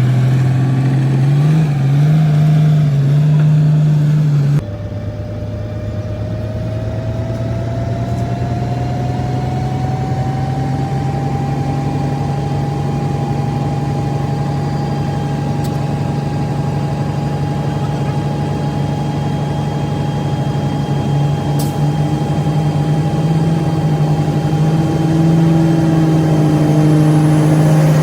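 Komatsu D58P bulldozer's diesel engine running steadily. A whine rises slowly in pitch over several seconds and then holds, and the sound changes abruptly about five seconds in.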